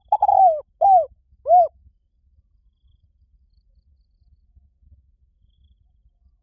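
Spotted dove calling: a phrase of three low, falling coos within the first two seconds.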